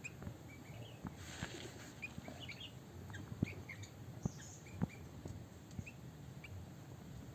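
Small birds chirping with many short, high calls, mixed with scattered sharp clicks or taps.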